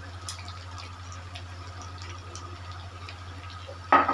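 Bottled sauce being poured into a bowl, with small liquid and dripping sounds over a steady low hum, and a short knock near the end.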